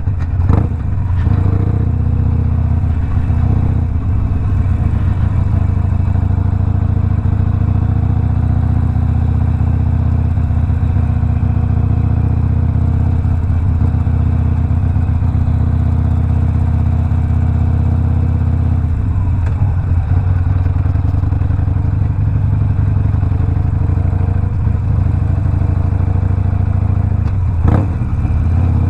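Harley-Davidson Sportster Iron 1200's 1200 cc air-cooled V-twin running steadily at low, even revs through a Two Brothers 2-into-1 exhaust while riding. There is a brief knock about half a second in and another near the end.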